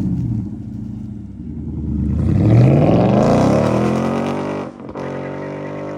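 Ford Mustang GT's Coyote 5.0 V8 through an SR Performance axle-back exhaust with the mufflers deleted, accelerating hard past. The engine note climbs steeply in pitch and is loudest about two and a half seconds in, then holds high, with a brief dip about four and a half seconds in.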